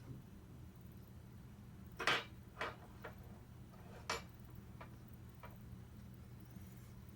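Six short, irregularly spaced clicks, the first the loudest, over a faint steady low hum.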